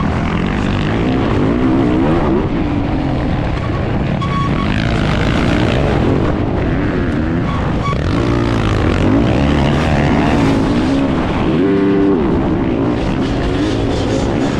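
Motocross bike engine heard onboard, revving up and down over and over as the rider opens and closes the throttle, with wind rush on the microphone.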